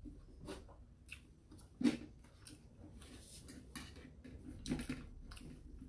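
People chewing and eating quickly, with irregular wet mouth clicks and smacks; the sharpest one comes about two seconds in.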